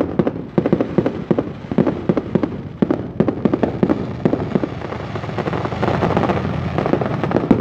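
Fireworks going off in quick, irregular succession: a dense string of sharp bangs and crackles, several a second.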